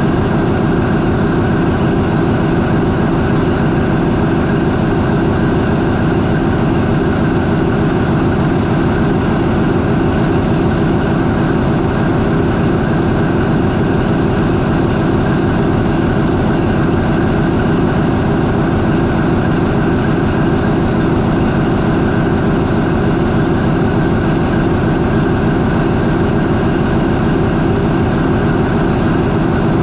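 MAN 20V28/33D STC twenty-cylinder diesel main engine of a high-speed ferry idling steadily at 400 RPM.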